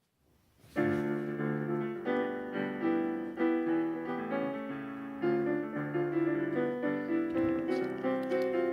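Background piano music: gentle chords and a melody, starting just under a second in.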